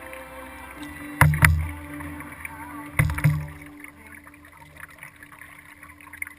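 Kayak paddling heard through a camera mounted on the kayak: two pairs of sharp knocks with a low thud, about two seconds apart, as the paddle strikes the hull.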